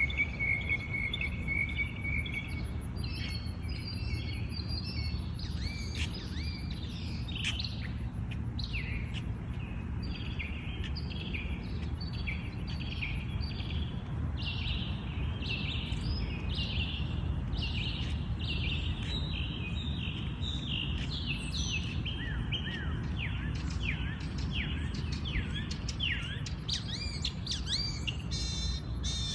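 A songbird singing a long, unbroken run of short, varied chirped phrases, with a steady trill in the first two seconds and a low steady rumble underneath.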